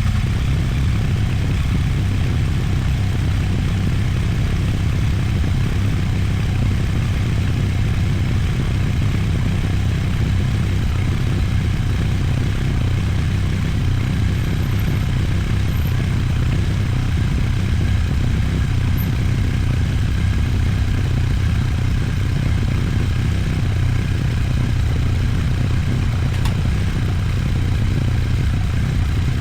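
Triumph Bonneville Bobber's 1200 cc parallel-twin engine running steadily, being warmed up to bring back the heat colouring on its exhaust headers.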